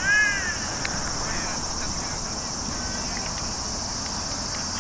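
Steady high-pitched chorus of insects, with a voice shouting once right at the start and a few faint taps.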